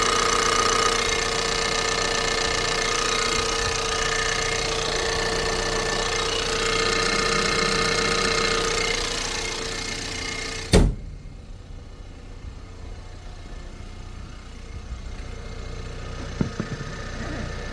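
Ford Maverick's 2.0-litre turbocharged four-cylinder engine idling after a cold start. About eleven seconds in comes a single sharp knock, and after it the idle sounds much quieter and duller.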